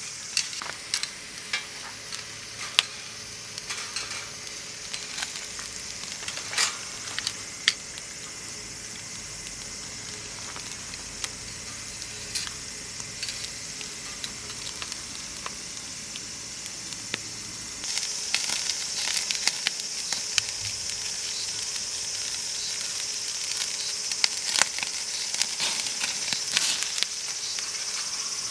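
Food sizzling in a hot pan, with scattered sharp pops of spattering fat. About two-thirds of the way through, a steady chirring of crickets rises.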